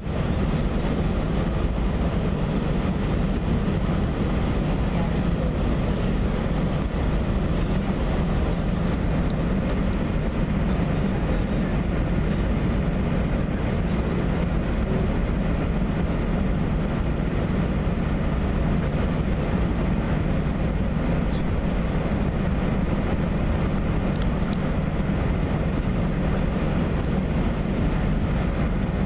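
Airbus A320 jet noise: a steady low rumble of the engines with an even rushing hiss over it, holding constant in level.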